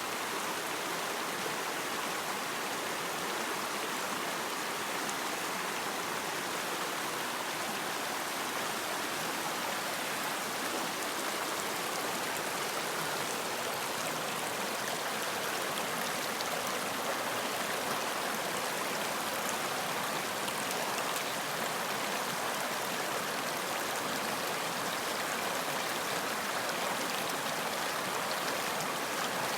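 Stream water running, a steady even rush and babble.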